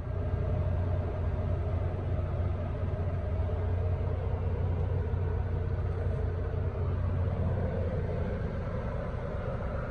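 Heavy truck running, a steady low rumble that swells up at the start and then holds even.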